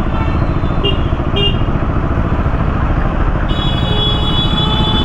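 Motorcycle engine running with a steady low rumble and road noise. Two short high toots come about a second in, and a vehicle horn sounds for about a second and a half near the end.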